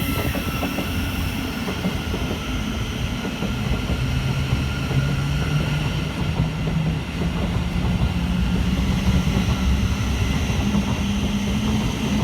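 A train running through a railway station, with a steady rumble. From about four seconds in, a low motor tone climbs steadily in pitch as the train picks up speed.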